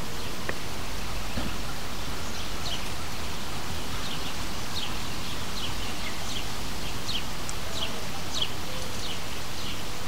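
Small birds chirping over and over in short, quick downward-sliding notes, over a steady outdoor background hiss.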